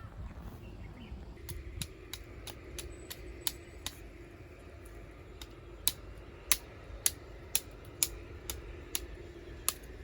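A run of sharp, irregular clicks and snaps, loudest and most frequent in the second half, over a faint steady hum.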